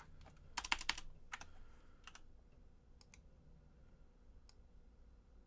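Computer keyboard keys tapped in a quick run in the first second, then a few scattered keystrokes or clicks, faint against a low room hum.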